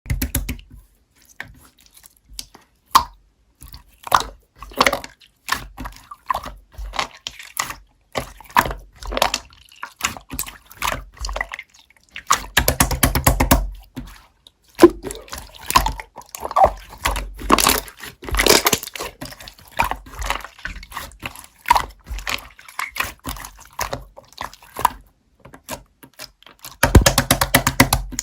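Slime being squished and pressed by hand, giving irregular wet clicks and pops, with dense runs of crackling about twelve seconds in and again near the end.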